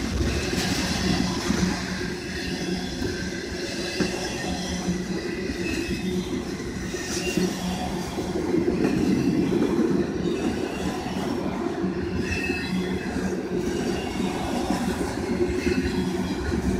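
Autorack freight cars of a CSX train rolling past steadily on jointed track, with a continuous wheel-on-rail rumble, occasional knocks and brief high-pitched wheel squeals.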